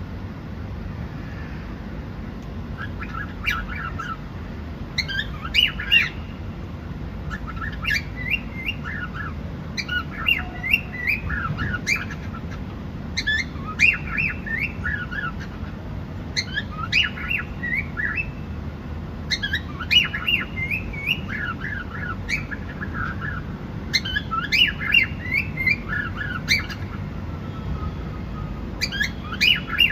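Cockatiels chirping and squawking in short bursts of rapid chirps every couple of seconds, over a steady low background hum.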